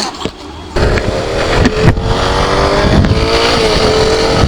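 Motorcycle engine running steadily at road speed, with wind rumble on the microphone. The sound jumps suddenly louder just under a second in.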